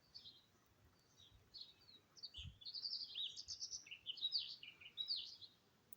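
Small birds chirping and twittering in quick, high, repeated notes, sparse at first and busier from about two seconds in.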